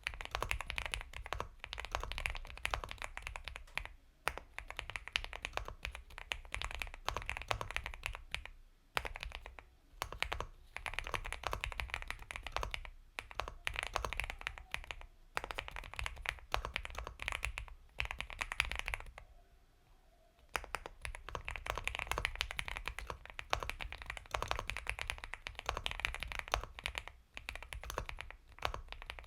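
Typing on an Epomaker x Feker Galaxy 80 mechanical keyboard with Gateron Milky Yellow Pro linear switches: soft, creamy keystrokes in fast runs. The runs break off several times, once for about a second and a half near twenty seconds in.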